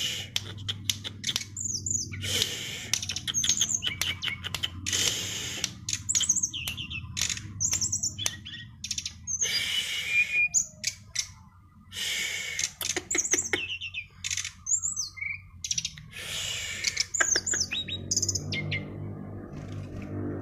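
Songbird singing a loud, varied song: phrases of harsh rasping bursts mixed with quick high whistled notes, separated by short pauses.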